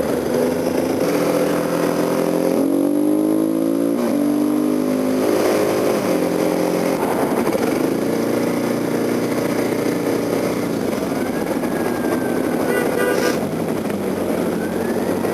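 Kawasaki KLX250SF supermoto's single-cylinder engine pulling under way, its pitch climbing as it revs and dropping sharply as the throttle eases, then running steadily, with wind noise over it.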